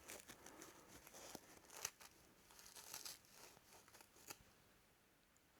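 Faint rustling and scratching with a few light clicks as a small metal spring is handled and cleaned by hand; the sounds die away a little after four seconds in.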